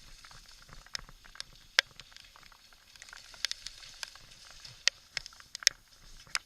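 Irregular sharp ticks and taps over a faint steady hiss, from a full-suspension mountain bike riding down a rocky trail in a heavy thunderstorm's rain.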